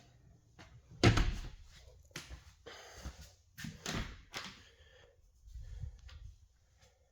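A series of knocks and thuds in a small room, the loudest a sharp bang about a second in, followed by several lighter knocks.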